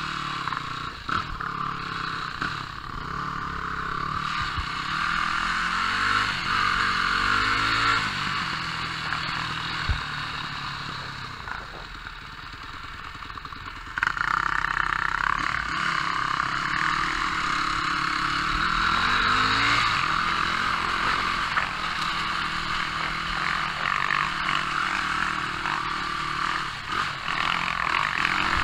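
250 cc four-stroke dirt bike engine revving up and down as it rides a rough dirt track, heard from a helmet-mounted camera, its pitch rising and falling again and again. The level dips for a moment past the middle, then jumps back abruptly.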